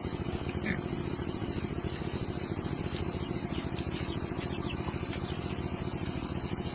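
A small engine running steadily with a rapid, even pulsing beat.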